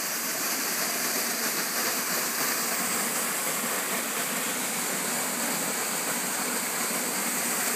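Waterfall pouring steadily into its pool, an even rushing of water.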